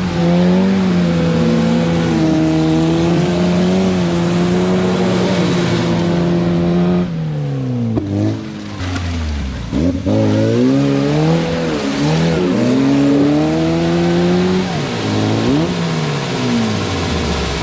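UAZ off-road vehicle's engine revving hard under load while working through the mud. It holds high and steady for about seven seconds, then drops, and rises and falls several times.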